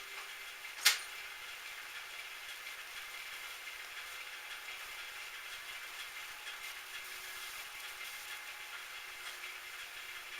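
Steady mechanical noise with a faint hum, broken by one sharp click about a second in.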